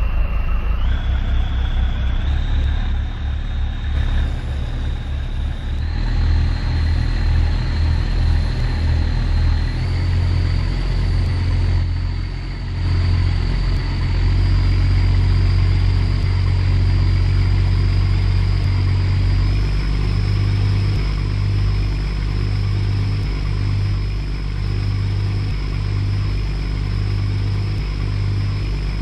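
A boat's engine running under way: a heavy, steady low rumble with a thin high whine that climbs in steps over the first ten seconds or so, then holds.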